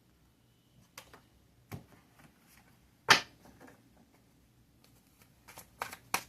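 Tarot cards being handled: scattered light clicks and taps, a sharper one about three seconds in, and a quick run of clicks near the end.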